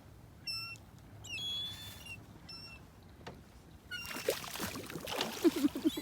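Seagulls giving short high-pitched calls three times, followed by a louder stretch of splashing and flapping in the last two seconds as the gulls go for the food on the water.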